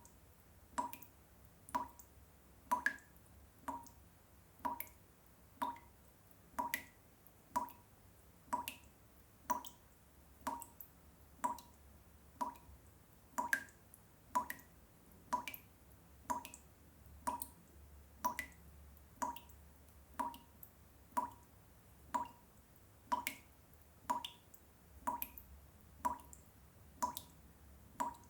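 Water dripping steadily, one drop about every second, each drop a short pitched drip.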